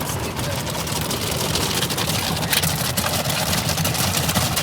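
Automatic tunnel car wash equipment running around the car, heard from inside the cabin: a steady low rumble under a hiss, with scattered light hits.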